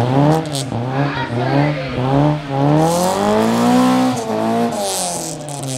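Nissan saloon's engine revved hard during a burnout, its pitch jumping up and down in quick pulses, then rising in one long climb and falling away. The spinning tyres hiss twice, about three seconds in and again near the end.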